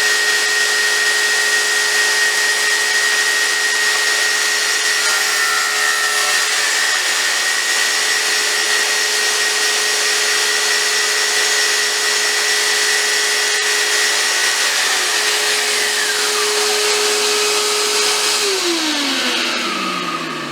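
Circular saw running at steady speed, cutting a shallow groove for a through-wire. Near the end it is switched off and its pitch falls as the blade winds down.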